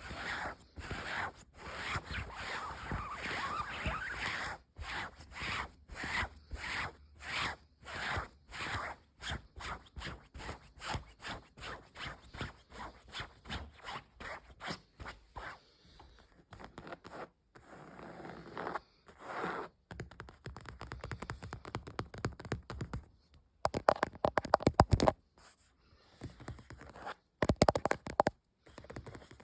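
Fast ASMR scratching and tapping on objects: quick rhythmic scratchy strokes, about two a second, through the first half. They then thin out, with louder, denser flurries of scratching near the end.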